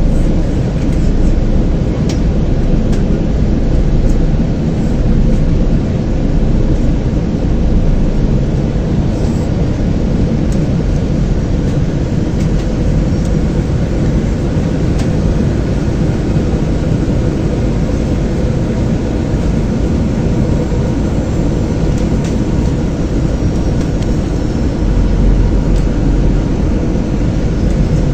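Airliner cabin noise during landing: a steady, loud rush of jet engines and airflow heard from inside the cabin. A deeper rumble swells for a couple of seconds near the end.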